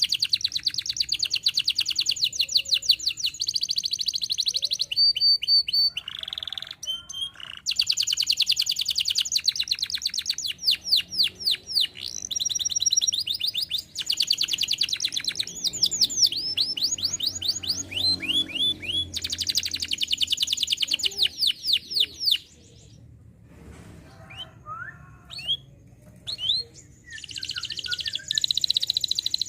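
Canary singing: long, fast, high-pitched trills of repeated notes, changing to a new phrase every second or two. About 22 seconds in the song breaks off to a few scattered chirps, then the trilling resumes near the end.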